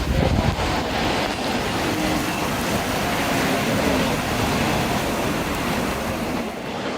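Steady rushing noise of a storm, wind and rain, with a vehicle's engine and road noise under it.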